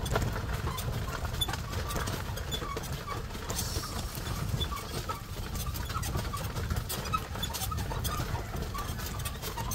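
Carabao-drawn cart rolling along, with irregular clicks, knocks and small squeaks from the cart and the animal's steps over a steady low rumble.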